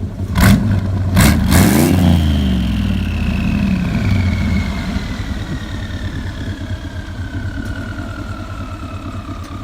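Turbocharged Chevy truck engine blipped hard two or three times in quick succession, then dropping back to a steady idle. A high whine falls slowly in pitch as the turbo spins down.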